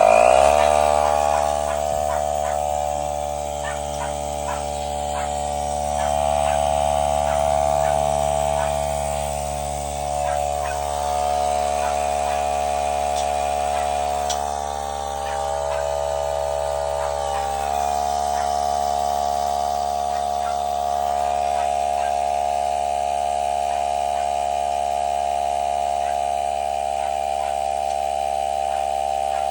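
Portable electric air inflator starting abruptly and running with a steady drone, pumping air into a water heater expansion tank to bring its air pre-charge up to a set 55 psi.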